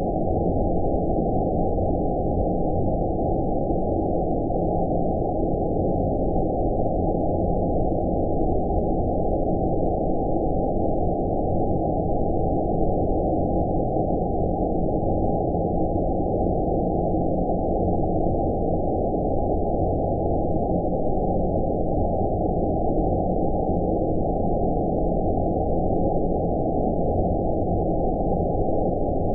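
Steady low rumbling noise with everything above the low-mid range filtered away, an unchanging 'outer space' sleep ambience.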